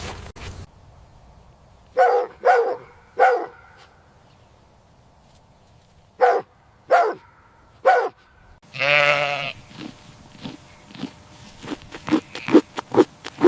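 Farm animal calls: two groups of three short calls, then one longer wavering call about nine seconds in, followed by a quickening run of short calls near the end.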